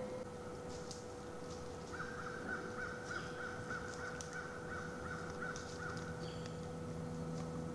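A bird calling a fast run of about a dozen repeated notes, about three a second, starting about two seconds in and lasting about four seconds, with faint short high chirps around it.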